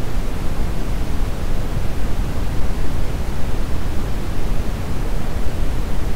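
Steady brown noise, a deep, even rumbling hiss with most of its energy in the bass and little treble.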